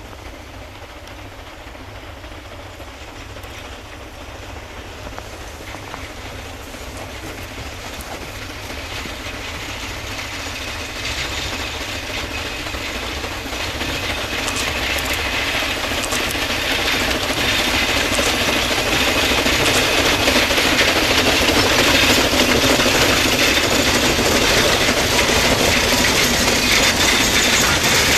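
C2 narrow-gauge steam locomotive and its train approaching on the rails, growing steadily louder over the first two-thirds and then staying loud as it draws near.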